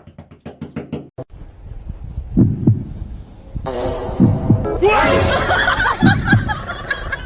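Pairs of low thuds repeating slowly, about three pairs in all, like a heartbeat, with a quick run of clicks at the start and music or voices layered over the second half.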